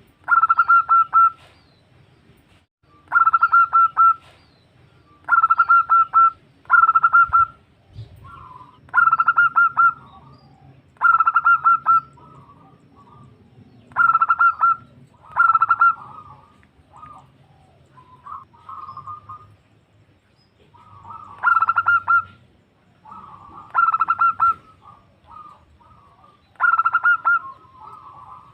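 Female zebra dove cooing to call a male: about a dozen short phrases of rapid, rattling coos, each about a second long, with softer notes in between and a longer pause in the middle.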